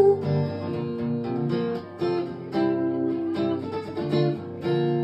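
Acoustic guitar strummed in steady chords, about two strokes a second, with no voice over it.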